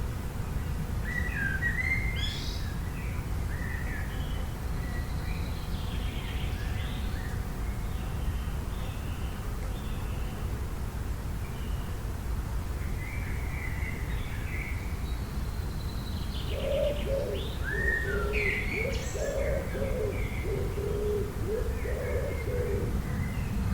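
Mixed wild birdsong: several small birds chirping and trilling in short phrases, joined from about two-thirds in by a run of low cooing calls, over a steady low rumble.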